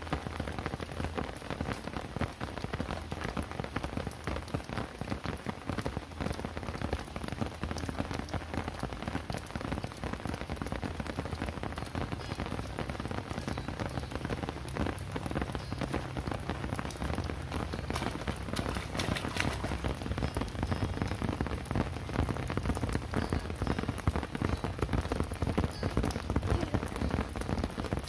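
Steady rain falling, many drops pattering on surfaces, a little heavier in the second half.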